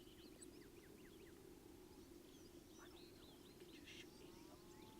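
Faint birdsong: many short chirps and quick falling whistles from several small birds, over a steady low hum.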